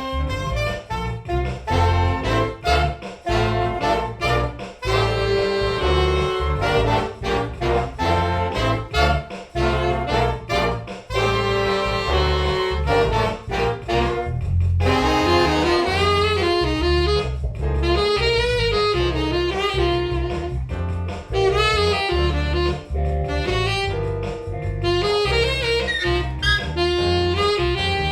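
Jazz big band playing, with saxophones and brass prominent over a pulsing bass line. About halfway in, a single winding melody line comes forward over the band.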